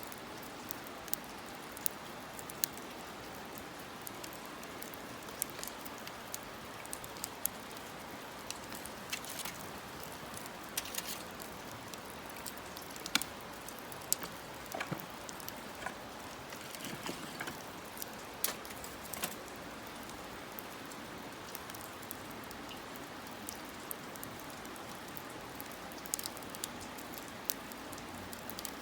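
Wood fire crackling in a campfire stand: a steady hiss with irregular sharp pops, about one or two a second.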